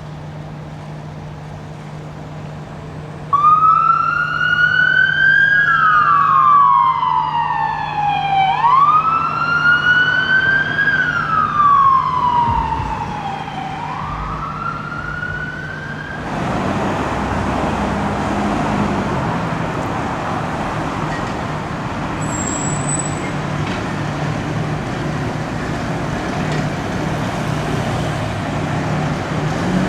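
An emergency vehicle's electronic siren wails, rising and falling slowly about three times, and cuts off after about 16 seconds. Loud vehicle and road noise follows as the vehicle goes by, with a brief high squeal partway through.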